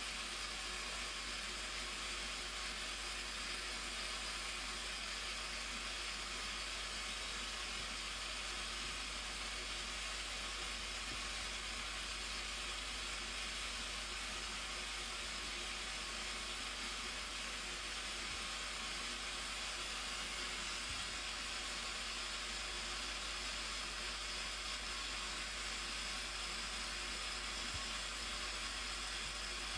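Steady rushing of a waterfall: an even hiss with no breaks or changes.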